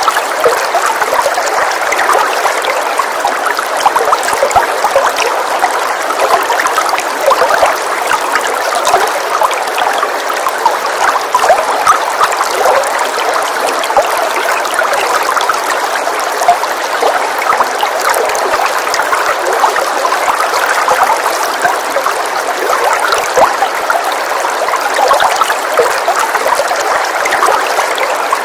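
Steady rain falling, a continuous hiss of pattering drops with no change in intensity.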